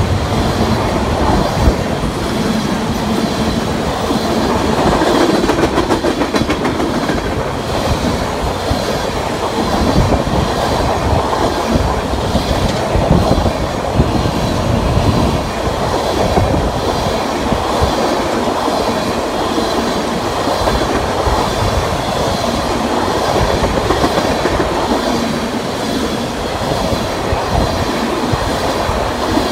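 A train's cars rolling past on the rails, a steady, unbroken sound of wheels on track.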